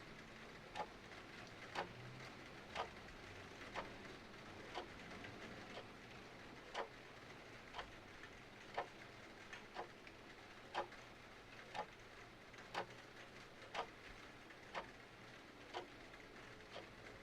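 Mechanical clock ticking steadily, about one tick a second, over a soft steady hiss of rain.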